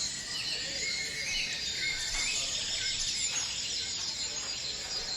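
Outdoor field-recording ambience: birds chirping in short wavering phrases over a steady high hiss of insects. The chirps fall mostly in the first half.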